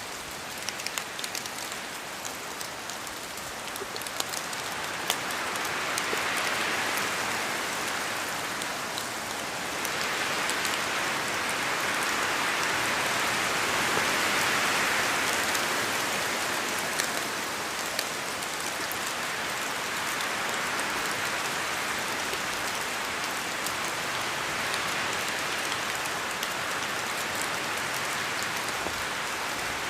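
Steady rain falling in a forest, a dense hiss with many separate drops ticking, as drops fall from the trees. The hiss swells louder about six seconds in and again through the middle, then settles.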